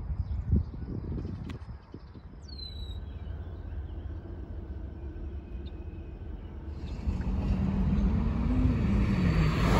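Low rumble of an approaching diesel locomotive. It grows louder from about seven seconds in, with a low engine note that wavers up and down. A single short bird chirp sounds early on.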